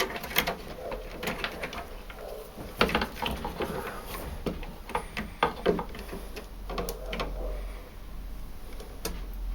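Irregular plastic clicks and knocks, with a few short squeaks, as parts are fitted back onto a Bosch tumble dryer's pump by hand, over a low hum.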